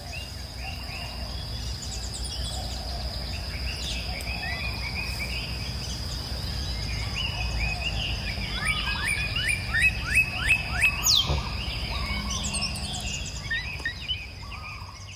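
Wild birds chirping and calling over a steady high-pitched drone, with a quick run of loud rising chirps about ten seconds in; the sound fades out near the end.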